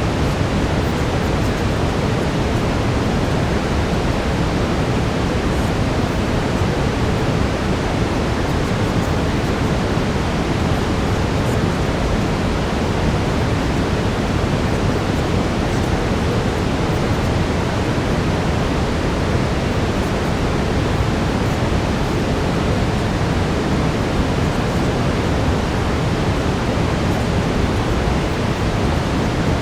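Steady brown noise: an even, unbroken rushing hiss weighted toward the low end.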